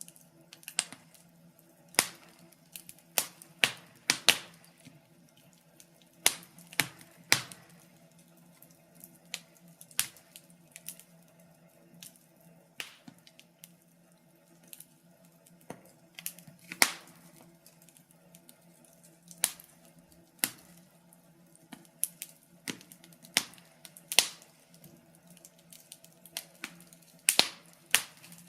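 Wood fire crackling in a fireplace: sharp, irregular pops and snaps about once a second, some coming in quick clusters of two or three.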